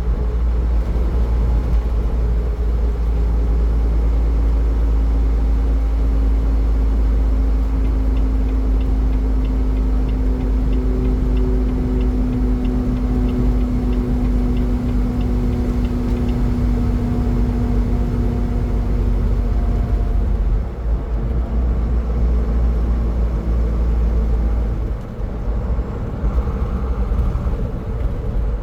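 Car driving at highway speed: a steady low rumble of road and wind noise, with a steady hum that comes in a few seconds in and fades out about two-thirds of the way through.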